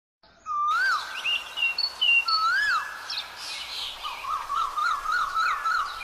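Birds calling over a steady background hiss: clear whistled notes that rise and fall, then a quick wavering run of short notes, about four a second, in the second half.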